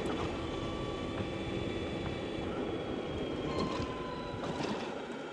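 Energica Experia electric motorcycle riding along: a steady rumble of tyres and wind with thin steady whining tones above it. A few brief clicks and rattles come about three and a half and four and a half seconds in, on a rough, potholed road.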